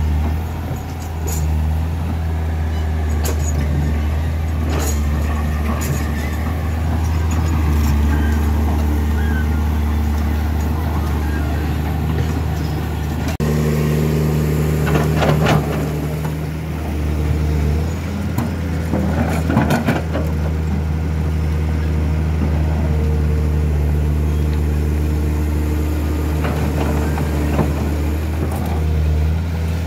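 Heavy truck diesel engines running and labouring on a steep climb, their pitch stepping up and down. Short noisy bursts come through about halfway.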